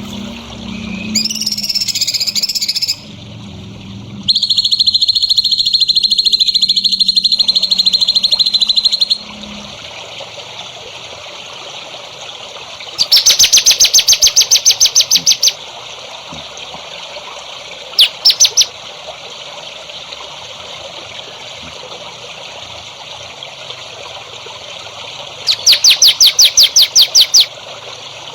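Songbird song for bird-training: a short warbled phrase, then a long, even buzzing trill, followed by several bursts of rapid, evenly repeated high notes.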